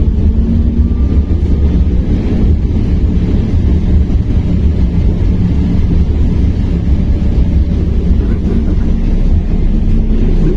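Steady ride noise inside a moving BKM-60102 between stops: a loud low rumble from the running gear and road, with a faint steady hum above it.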